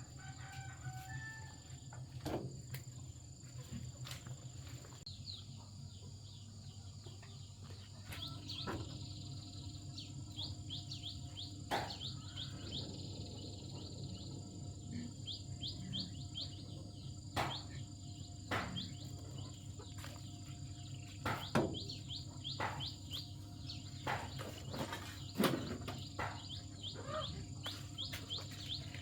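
Birds chirping in quick short notes over a steady low hum and a thin high insect tone, with sharp knocks every few seconds.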